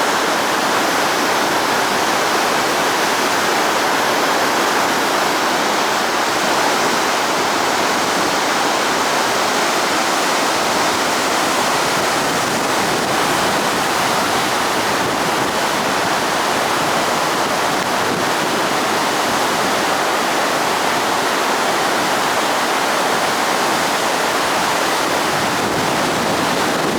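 The Shinano River rushing over and below the Miyanaka intake dam: a loud, steady wash of flowing water that never lets up.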